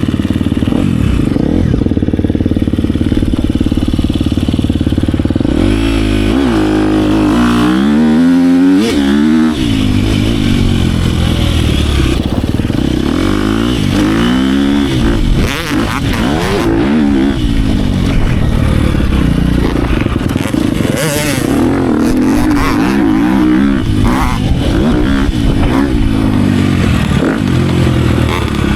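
Dirt bike engine being ridden hard on a motocross track, loud throughout, its pitch repeatedly climbing and dropping as the throttle is worked through the gears, most busily about a quarter of the way in and again around the middle.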